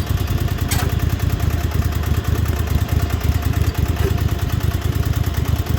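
Riding lawn mower's small engine running steadily, with a faint click about a second in.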